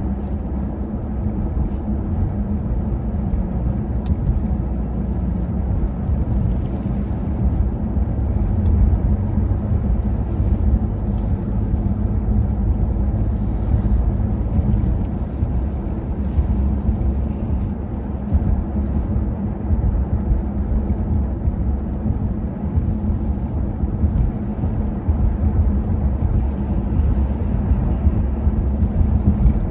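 Blizzard wind buffeting the microphone: a steady low rumble with no breaks.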